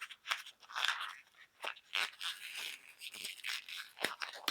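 A 160 latex modelling balloon being twisted by hand into pinch twists, the latex rubbing and creaking against itself and the fingers in short irregular strokes, with a sharp click near the end.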